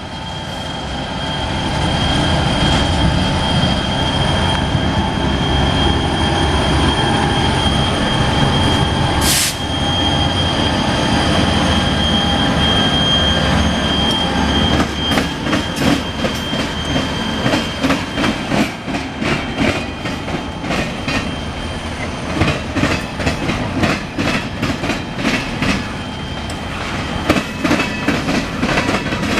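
CSX local freight train passing: a steady heavy rumble with a high steady wheel squeal over it, and one short sharp noise about nine seconds in. From about halfway on, the rumble gives way to a rapid clickety-clack of freight-car wheels over the rail joints.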